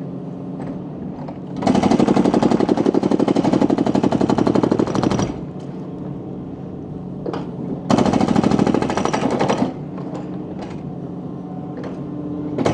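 A machine engine running steadily under two bursts of rapid mechanical rattling, like hammering: the first lasts about three and a half seconds and the second, about eight seconds in, nearly two.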